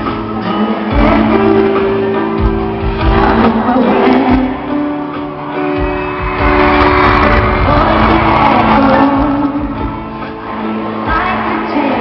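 Live pop ballad heard in a large hall: a female lead voice singing over held keyboard chords and low drum hits, with the crowd shouting and singing along.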